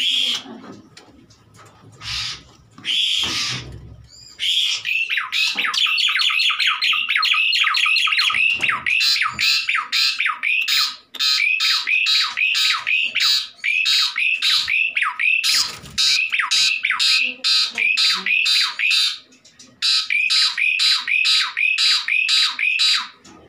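Ciblek (bar-winged prinia) giving a fast, unbroken run of short, high, down-slurred squawking calls, about three a second. The calls start a few seconds in and pause briefly near the end.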